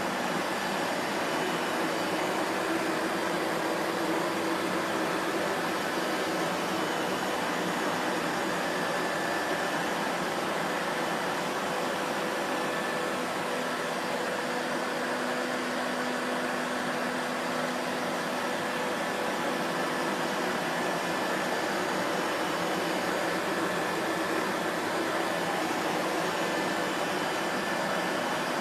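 Vacuum cleaner running steadily: an even rush of air with a faint motor hum at a few pitches that swells and fades slightly.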